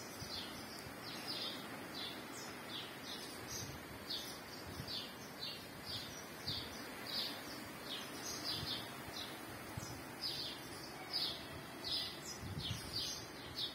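Small birds chirping: a steady run of short, high chirps, about two a second, over faint background noise.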